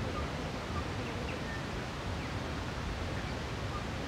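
Quiet outdoor ambience: a steady low background hiss with a few faint, short bird chirps scattered through it.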